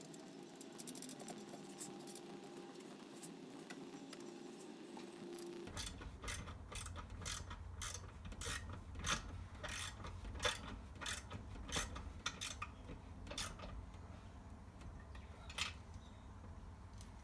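Ratchet wrench tightening the nuts and bolts that hold a small engine to a lawn edger's steel chassis: a run of sharp metallic clicks, about one to two a second, starting about six seconds in and stopping near the end.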